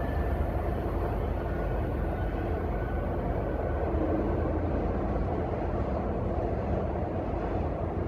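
MBTA commuter train's diesel locomotive and cars rumbling steadily down the track as the train pulls away, the low rumble easing off slightly as it recedes.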